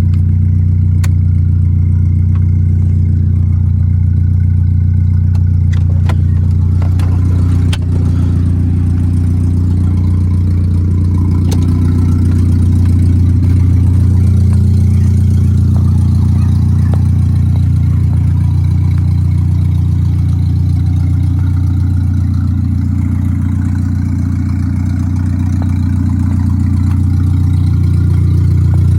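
Volkswagen Gol G4 Rallye's engine running steadily at an even pitch, with a few light clicks about six to eight seconds in.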